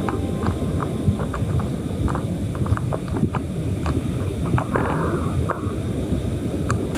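Wind rumbling on the microphone outdoors, with irregular light clicks and knocks scattered through it and a brief hiss about five seconds in.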